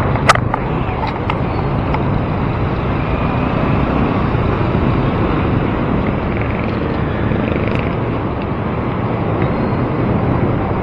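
Steady rush of traffic and road noise heard from a bicycle riding among motor vehicles, with one sharp click about a third of a second in.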